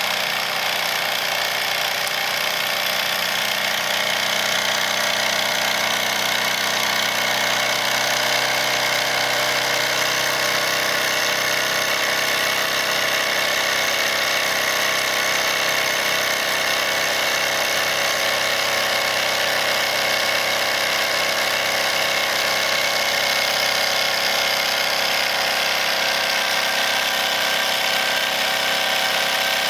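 Wilesco D101 toy steam engine with its small double-acting cylinder running steadily at speed, driving a line shaft with a miniature grinder and table saw. A constant mechanical whir with several held ringing tones, unchanging throughout.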